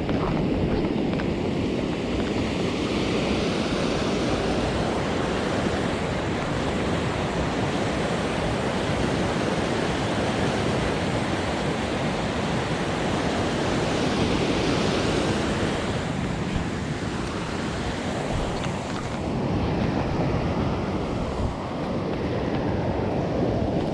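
Fast-flowing, rain-swollen stream water rushing steadily, an even noise with no break.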